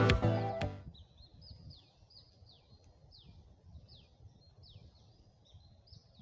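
Intro music ending within the first second, then a bird calling over and over with short, high, falling whistled notes, about two a second, faint over soft outdoor background.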